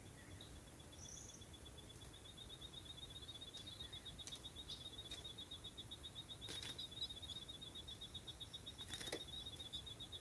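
Faint, steady high-pitched trill of rapid even pulses that starts about two seconds in, with a few soft clicks over it.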